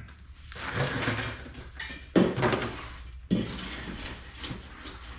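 Clattering handling sounds with two sharp knocks, one about two seconds in and the louder one about three seconds in.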